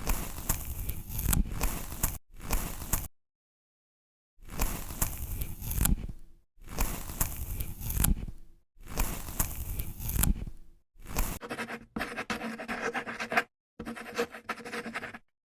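Paintbrush scraping and scratching across a drawing sheet in a series of separate stretches of stroking, each cut off abruptly.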